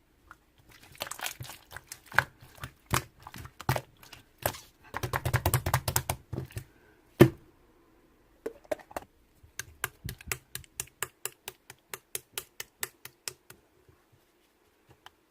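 Clear slime being squeezed and pressed by hand, giving sharp sticky clicks and pops. A dense run of crackling comes near the middle, followed by one loud pop, then an even series of clicks at about three a second.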